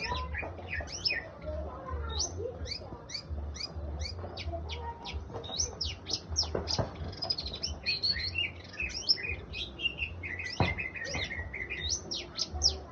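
A kept songbird used as a masteran, a song tutor for other birds, singing a fast, varied song of short high notes that sweep downward, one after another with barely a pause.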